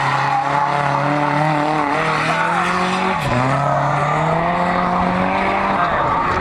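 Nissan 240SX drift cars at high revs with tyres squealing as they slide. Engine pitch dips sharply about three seconds in, climbs steadily, then falls away near the end.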